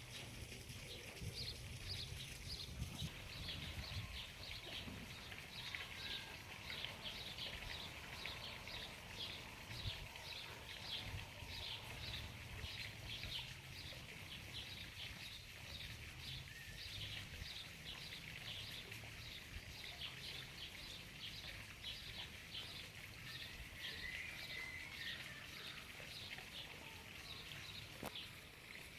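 Outdoor background with a small animal's high, short call repeating steadily about two to three times a second, over a low rumble.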